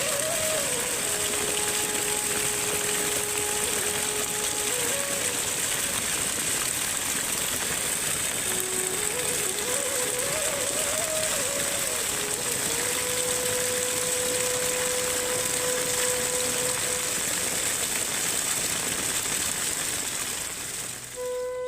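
Steady, even rush of water. A soft, slow melody of long held notes plays over it.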